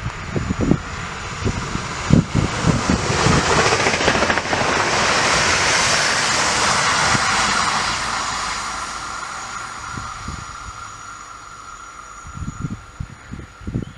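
Newag Impuls 31WE electric multiple unit passing at speed: its rumble and rail noise swell to a peak about five or six seconds in, then fade away. Wind buffets the microphone at the start and again near the end.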